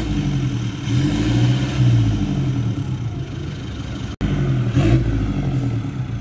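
Toyota Innova Reborn's 2GD turbodiesel engine, fitted with replacement injector nozzles, revving in surges, its pitch rising and falling a few times. There is a brief cut-out about four seconds in.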